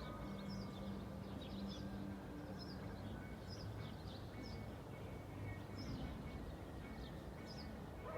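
Small birds chirping again and again, short high notes over a low steady hum of distant traffic.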